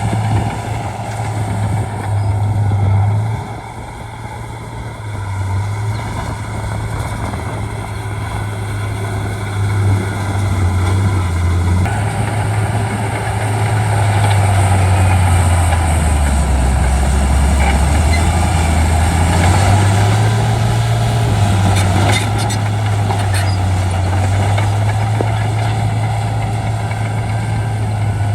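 Shantui D95 crawler bulldozer's diesel engine running at work, its low note dropping about midway through and climbing back, with a few sharp clicks near the end.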